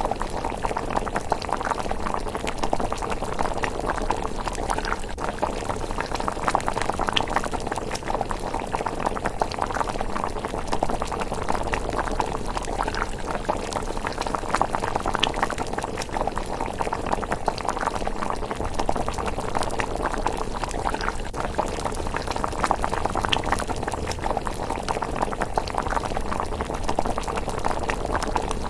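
A pot of thick rice porridge simmering with a steady, dense bubbling and popping.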